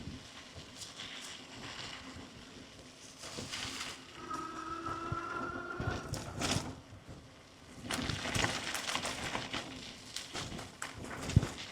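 Electric bicycle with a front hub motor riding over rough ground: the bike rattles and knocks over bumps, with a steady whine that climbs slightly from about four to six seconds in. A single sharp thump near the end is the loudest sound.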